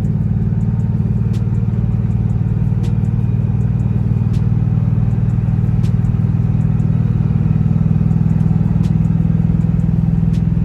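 Ford 5.4-litre three-valve V8 idling steadily at an even pitch, with a faint tick about every second and a half.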